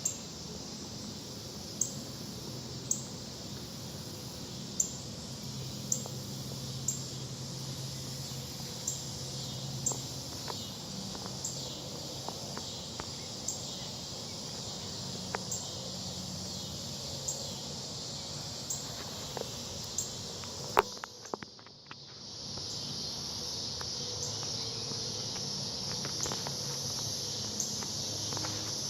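Steady high-pitched insect chorus outdoors, with faint sharp ticks about once a second. About two-thirds of the way through, a sharp knock and a brief dropout, after which the insect sound is louder.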